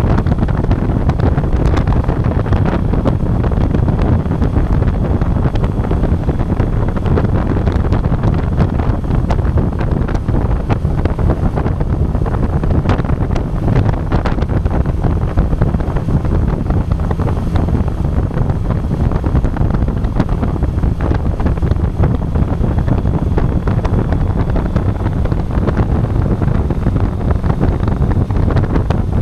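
Steady, loud wind buffeting the microphone of an action camera on a moving motorcycle, a low rumble of rushing air that masks the engine.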